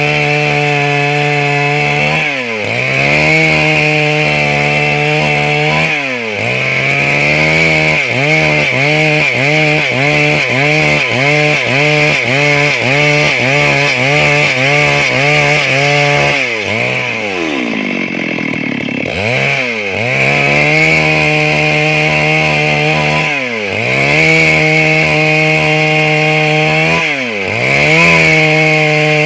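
Stihl MS 382 two-stroke chainsaw running at high revs while cutting wood, its engine note dipping under load every few seconds. Through the middle stretch the pitch rises and falls about once a second, then drops nearly to idle for a moment before revving back up.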